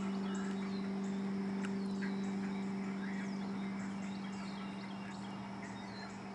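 Birds chirping and calling, with a steady, regular high-pitched pulse repeating a couple of times a second, over a constant low hum.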